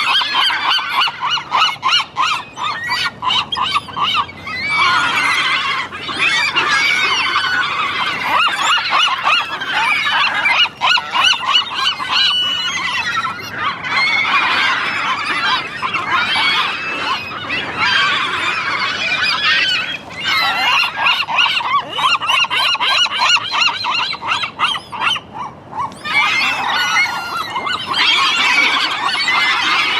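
A flock of seagulls calling loudly, many overlapping squawks and cries at once, thinning out briefly twice before picking up again.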